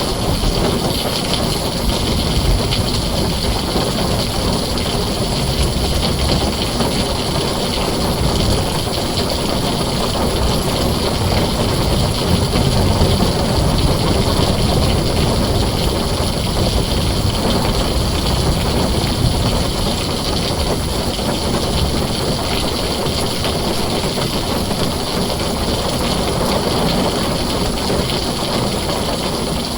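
Heavy rain drumming steadily on a tin roof, with a low rumble underneath that swells a little near the middle.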